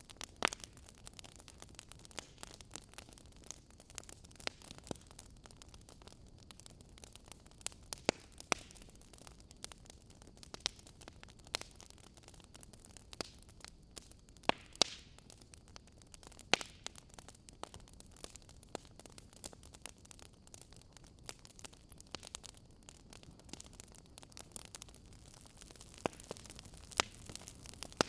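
Fire in a fireplace crackling: irregular sharp pops and snaps, about a dozen of them loud, over a soft steady hiss.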